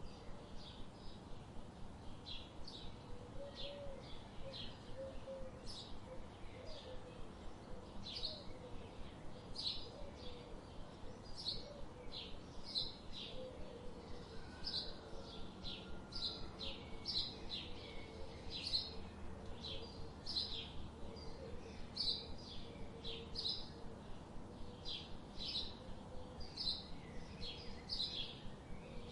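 Small birds chirping: a continuous run of short, high chirps, about two a second, with a fainter, lower warbling call underneath.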